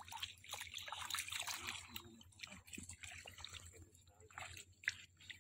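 Shallow water trickling, with irregular small splashes and sloshes.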